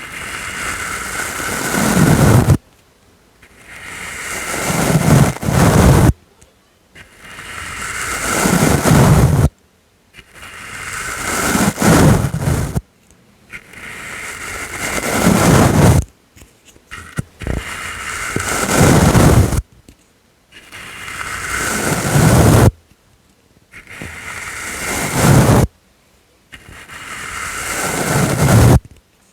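Soft ASMR brush swept slowly against the microphone in about nine repeated strokes, one every three seconds or so. Each stroke grows louder and fuller as it comes in and then stops abruptly.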